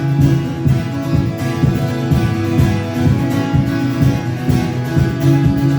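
Acoustic guitar strummed steadily between sung lines: an instrumental passage of a live song.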